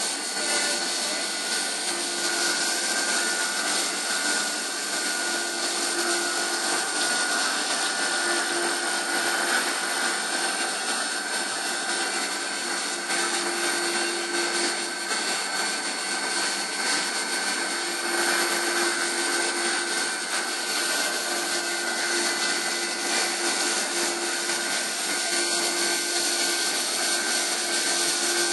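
CNC milling machine cutting chamfers with coolant spraying against the inside of the enclosure window: a steady hiss with several steady high whining tones from the spindle and cutter.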